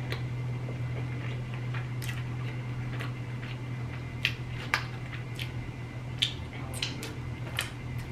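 Close-miked chewing of chicken wings: wet mouth sounds with sharp little crackles and clicks, the loudest a little past the middle. A steady low hum lies under it.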